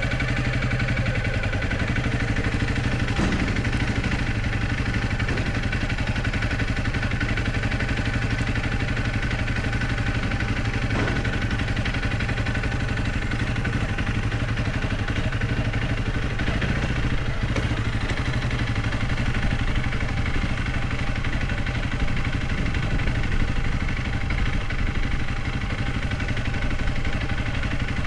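Honda CRF300L Rally's single-cylinder engine running steadily at low revs, with small rises and dips in pitch.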